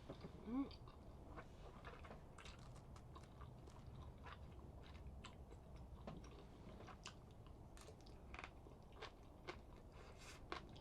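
A person chewing and eating close to the microphone, with scattered small clicks and mouth sounds, and a short hummed "mm" about half a second in.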